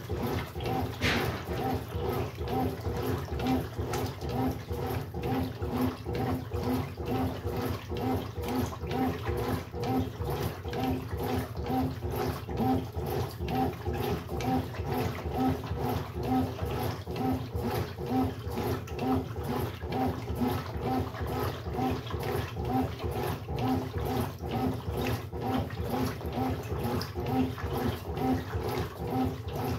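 Brastemp Sexto Sentido 8 kg washing machine running its wash cycle: water sloshing in the drum with a steady, regularly repeating pulse.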